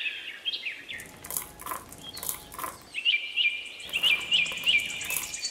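Small birds chirping in short repeated calls, with a quick run of chirps late on, over light clicks of small pebbles being dropped one by one onto a pile of pebbles.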